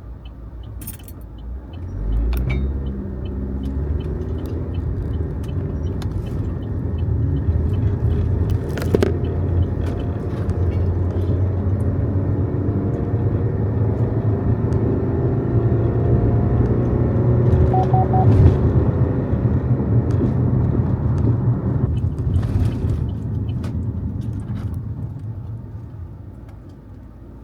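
Car engine and road rumble heard from inside the cabin as the vehicle pulls away and speeds up, the engine note rising in pitch. It stays loud for a while, then eases off and quiets near the end as the car slows. A few light clicks and rattles sound inside the cabin.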